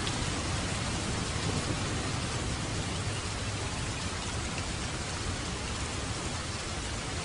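Steady rain, an even, unbroken hiss of drops falling on surfaces, with a low rumble underneath.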